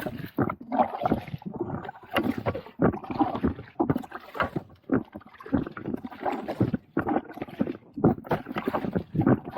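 Kayak being paddled: the paddle blades dip and splash in the water in uneven strokes, the louder splashes coming about once a second.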